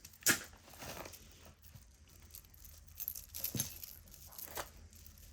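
Costume jewelry being handled: a sharp click near the start, then scattered light clicks and rattles of beads and metal pieces, with faint rustling.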